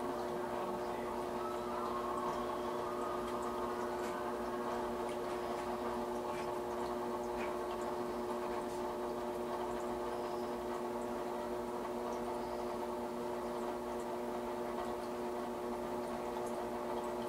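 A steady motor hum of several even tones, with water trickling and a few faint ticks, like a small water pump running.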